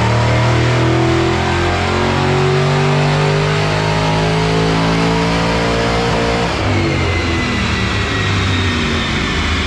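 Kenne Bell twin-screw supercharged Ford Mustang 4.6-liter three-valve V8 making a wide-open-throttle pull on a chassis dyno in third gear, revs climbing steadily. About six and a half seconds in the throttle closes and the engine winds down, with the supercharger's whine falling along with it.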